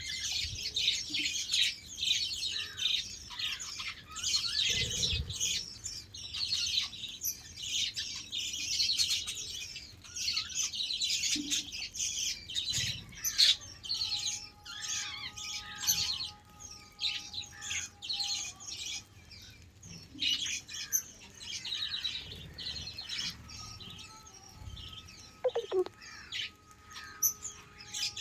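A flock of budgerigars chirping and warbling, a dense chatter of quick high chirps that thins out about halfway through, with a few longer held whistles later on.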